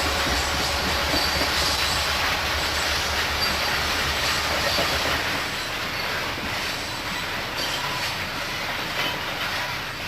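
Freight train rolling past, a steady rumble of wheels on rail with faint high wheel squeal and clicks over the rail joints. It grows a little quieter in the second half.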